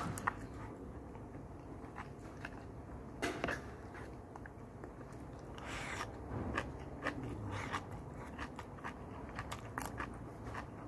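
Close-up eating sounds: a person biting and chewing a mouthful of rice and leafy greens, with scattered short sharp clicks and one longer noisy sound about six seconds in.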